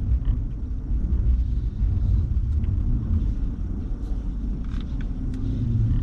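Steady low rumble inside a car with the engine running, with a few faint clicks from about halfway through to near the end.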